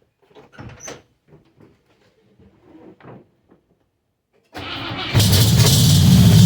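A few faint knocks, then about four and a half seconds in the 1961 Cadillac's 390 V8 cranks briefly on the starter and catches. It settles into a loud, steady run, open-sounding because one side exhausts through a straight pipe after a backfire blew out its muffler.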